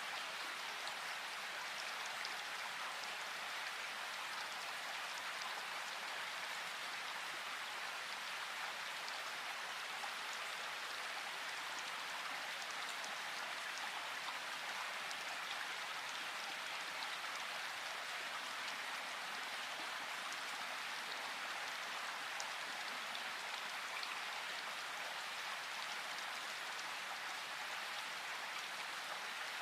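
Steady rain falling, an even hiss with fine scattered drop ticks and no change in strength.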